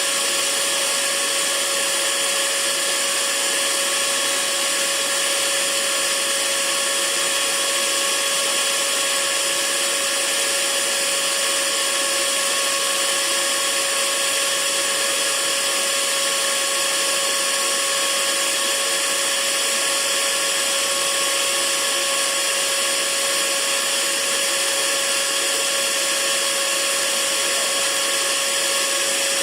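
Hair dryer running steadily: an even hiss of rushing air over a constant motor whine, used as white noise.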